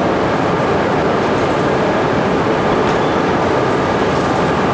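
Shinkansen bullet train running along the station platform: a loud, steady rush of noise with a faint hum in it.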